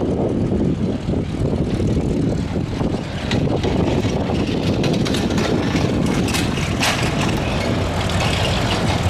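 Propeller aircraft engine running steadily as the plane flies an aerobatic display.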